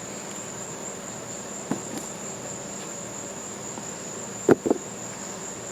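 Steady, high-pitched insect chorus. A couple of sharp knocks come quickly one after the other about four and a half seconds in.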